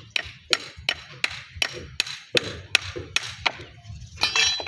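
Hammer blows on a flat natural stone slab, striking steadily about three times a second to split it along its layer lines into thinner pieces.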